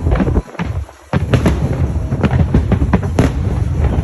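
Fireworks bursting in rapid succession: many sharp cracks and booms over a continuous low rumble. The sound drops away abruptly for about half a second near the start, then resumes.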